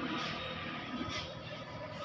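Road traffic: a vehicle's engine and tyre noise, a steady hiss with a low rumble that has just faded away.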